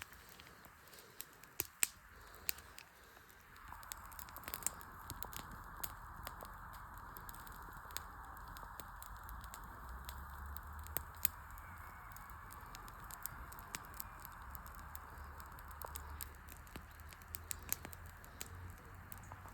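Wood fire crackling, with sharp snaps and pops scattered throughout, the loudest near two seconds and about eleven seconds in. A steady hiss joins about three and a half seconds in and carries on over a low rumble.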